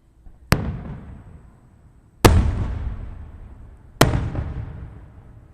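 Aerial firework shells bursting three times, each a sharp bang followed by a rumbling echo that dies away over a second or so; the second bang is the loudest.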